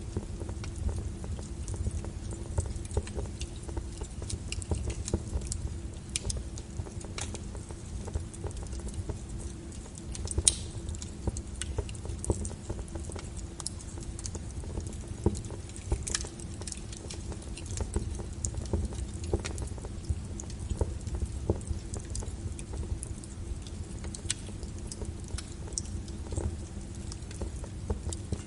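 Fireplace fire crackling: irregular sharp pops and snaps over a steady low noise from the flames, with a couple of louder pops about ten and sixteen seconds in.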